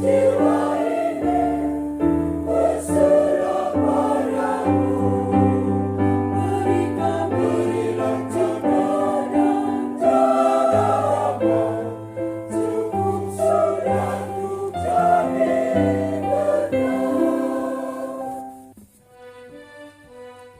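Church choir singing a hymn in held chords over a sustained instrumental bass. A little before the end the voices stop and a soft, sparse instrumental line carries on.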